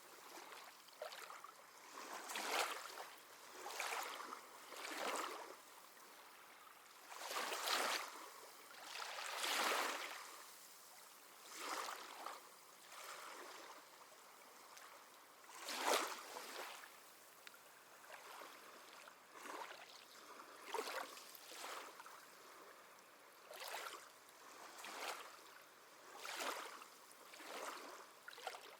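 Small sea waves lapping at the shore, one short wash of water every second or two. There is a longer swell about 8 to 10 seconds in and a sharper splash about 16 seconds in.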